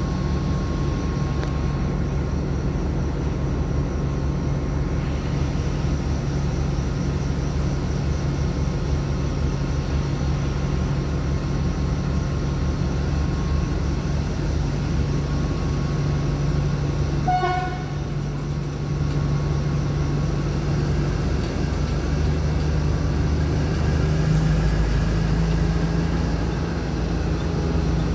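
Steady low diesel drone of a standing passenger train, with one short high-pitched toot about seventeen seconds in and the drone swelling a little near the end.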